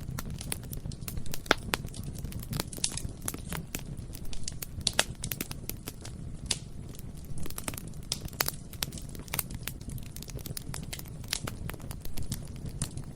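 Bonfire burning: a steady low roar of the flames with irregular crackling and sharp pops of burning wood, a few louder snaps scattered through.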